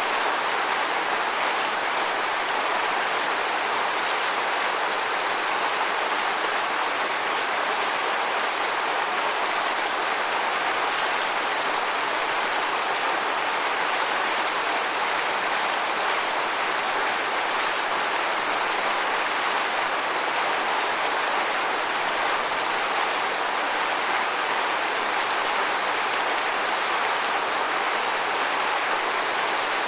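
Waterfall: water pouring and splashing in a steady, unbroken rush, bright and hissy with little deep rumble.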